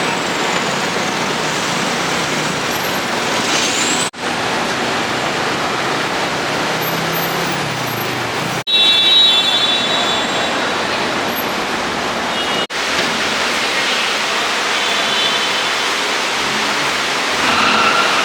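City road traffic: a steady rush of car engines and tyres on the street, broken by three abrupt cuts about four seconds apart.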